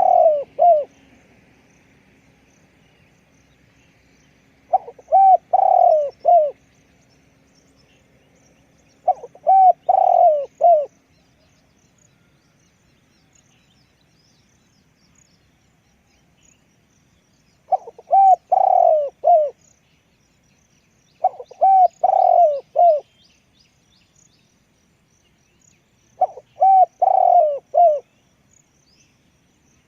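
Spotted dove cooing in six phrases, each a quick run of several coos lasting under two seconds, with pauses of a few seconds between phrases.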